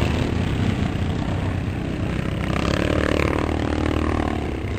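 Classic motocross motorcycle engines running hard as the bikes race around the track. One engine's note stands out clearly from the rest from about halfway through.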